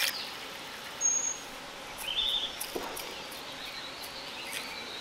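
Outdoor ambience with a couple of short bird chirps: a thin high one about a second in and a brief warbled note about a second later. Under them is a faint steady hiss, with a few light clicks.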